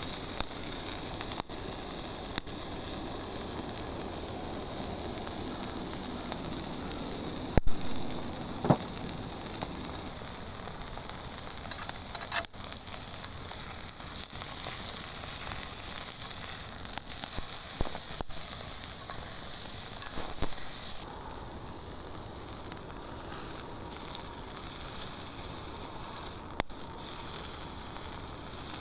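Rump steak sizzling on an iron griddle plate over a campfire: a steady high hiss with scattered sharp pops and crackles.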